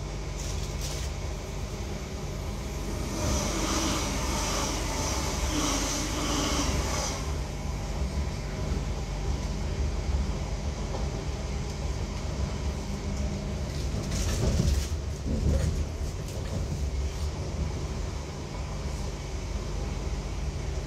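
Interior noise of a Class 323 electric multiple unit running: a steady low hum over rolling rail noise. A higher-pitched sound joins for about four seconds, a few seconds in, and the rumble swells louder for a couple of seconds past the middle.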